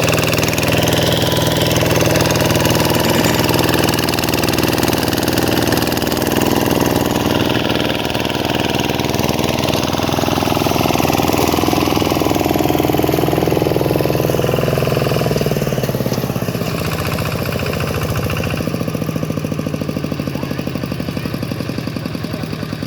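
Single-cylinder diesel engine of a Vikyno RV125-2 hand tractor running steadily with a rapid knocking beat. It grows somewhat quieter in the second half.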